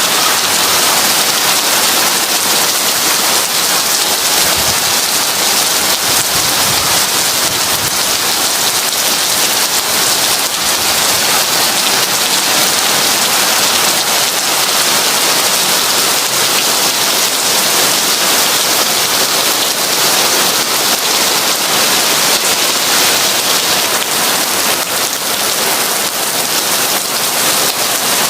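Heavy rain falling in a steady, dense hiss with no let-up.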